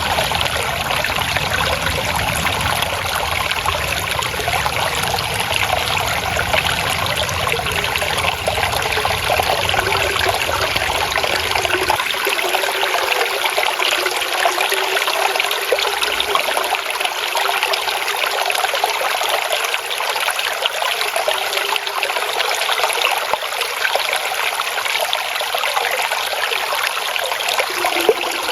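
Water trickling and flowing steadily over stones in a small stream. The low rumble underneath drops away about twelve seconds in, leaving mostly the brighter splashing.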